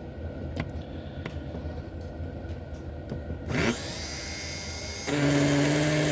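Life-Like HO slot car's small electric motor, fitted with a new armature and brushes, spinning up on a dyno: a few light clicks, then about three and a half seconds in a quick rising whine that settles into a steady high whine. It gets louder about five seconds in and holds steady.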